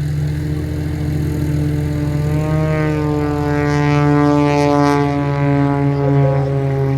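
Propeller aircraft engine running loud over a steady low hum; its tone swells about halfway through and then drops slightly in pitch as the aircraft passes.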